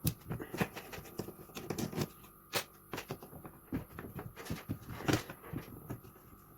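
Irregular light clicks and knocks of a screwdriver and small metal parts on a carburettor as the screws on its bottom are taken out, with a few louder knocks among them.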